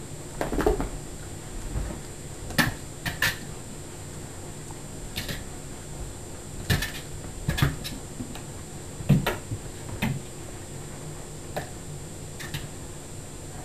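A dozen or so sharp taps and thumps at irregular intervals: a cat's paws and claws striking a hard floor as it pounces.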